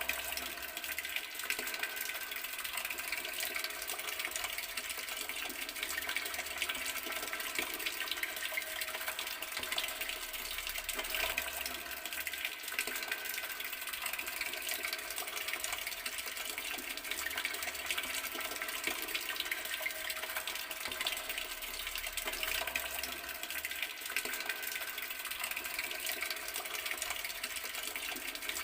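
Water running steadily from an outdoor garden tap, splashing continuously without a break.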